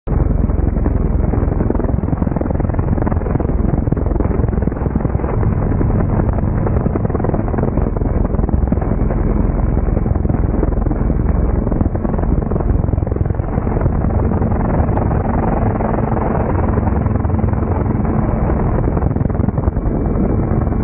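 Loud, steady rotor and engine noise of a homemade flying vehicle running, a dense low rumble with a faint steady hum over it.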